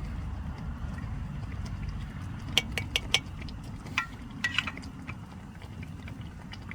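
Light clinks of metal camp cookware or utensils, a few sharp ones about two and a half to three seconds in and a few more around four to four and a half seconds, over a steady low rumble.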